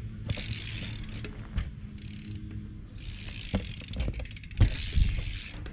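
BMX bike rolling, its rear hub's freewheel ratchet buzzing in three spells of rapid clicking over the low rumble of the tyres. Two sharp thumps come near the end.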